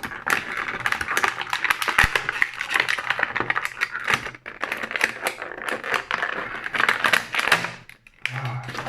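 Plastic toy packaging being cut open and handled: a dense run of crackles and clicks, with one sharper click about two seconds in.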